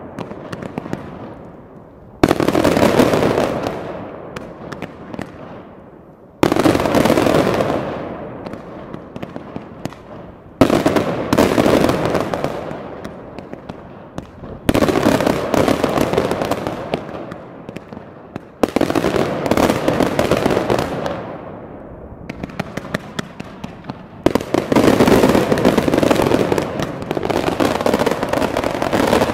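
Fireworks going off in a series of sudden bursts about every four seconds, each followed by dense crackling that fades away. Near the end come quick runs of sharp cracks.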